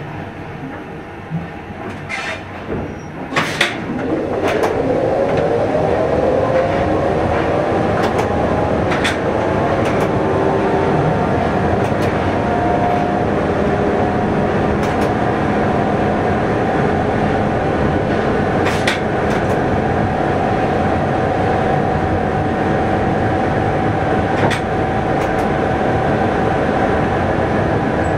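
Train running, heard from the driver's cab: about four seconds in, the drive rises in pitch and grows louder as the train gathers speed, then runs on with a steady hum and occasional clicks of the wheels over rail joints.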